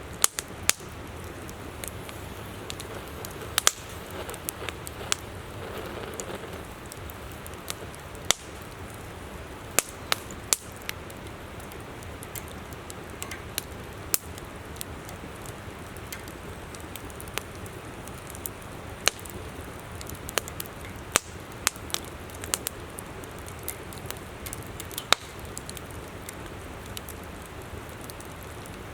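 Wood campfire crackling with sharp, irregular pops, over the steady rush of a flowing river.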